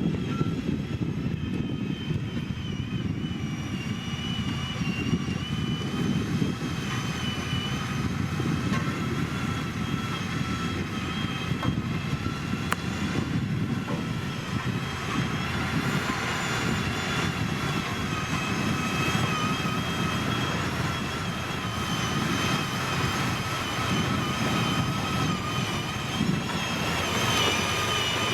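Heavy diesel road-construction machinery running steadily close by: a rough engine rumble with a high, slightly wavering whine over it.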